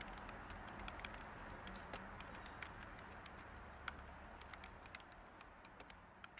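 Steady background white noise with scattered faint clicks, slowly fading out.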